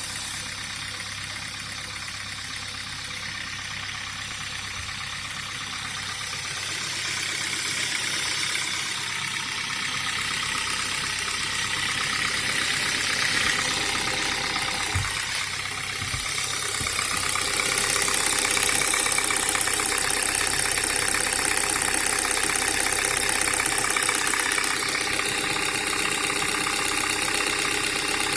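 Hyundai Elantra HD engine running steadily with a mechanical noise that the owner suspects is either a worn timing chain or valves needing adjustment. It grows louder about a quarter of the way in and again past the middle, with two brief low thumps near the middle.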